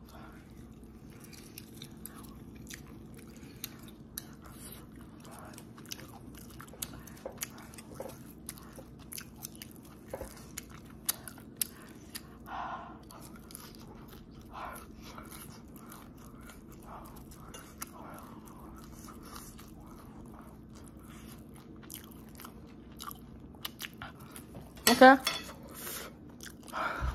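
Close-up chewing of food with scattered small wet mouth clicks and smacks, the mouth very near the microphone, over a steady low hum. A short, loud voiced 'mm'-like sound comes about 25 seconds in.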